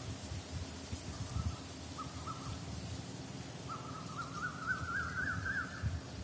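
A bird calling in short runs of quick repeated notes: two brief bursts, then a longer run near the end that rises slightly in pitch, over a low rumble on the microphone.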